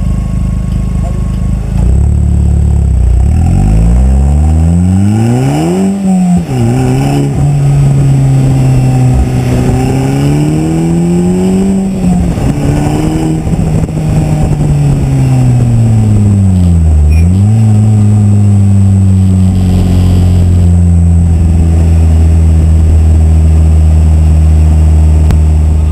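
KTM X-BOW GT's turbocharged 2.0-litre inline-four accelerating hard, its note climbing and then dropping suddenly at an upshift about six seconds in. It pulls again, eases off through the middle, and then runs at a nearly steady cruising pitch.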